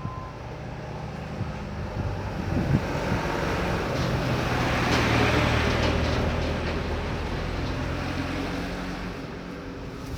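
A motor vehicle passing: a low engine hum under noise that swells to a peak about halfway through, then fades.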